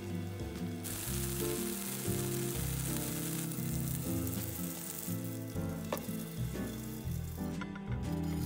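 Plant-based burger patty sizzling in hot oil in a frying pan, starting about a second in and stopping about a second before the end, with background music underneath.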